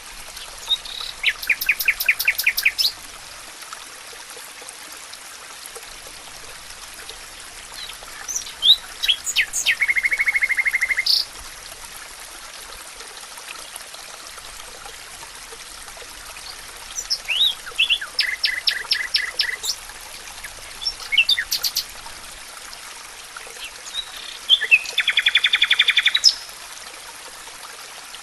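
A songbird singing four short trilled phrases several seconds apart, each about two seconds of rapid repeated notes, over a steady hiss of running water.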